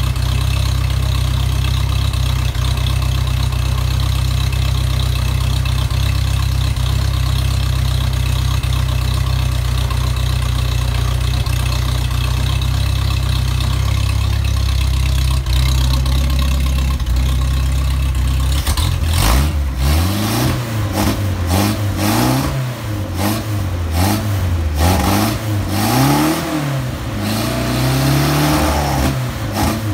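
Freshly rebuilt 1956 Mercedes-Benz 190SL 1.9-litre four-cylinder engine running on its first start-up. It runs steadily at first, then from about two-thirds of the way in it is revved up and down over and over, rising and falling in pitch every second or two.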